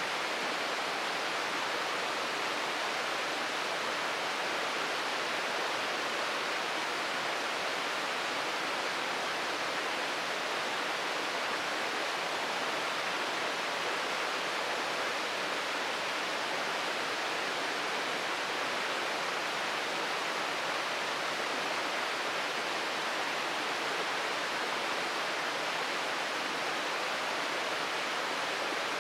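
Waterfall pouring with a steady, unbroken rush of falling water.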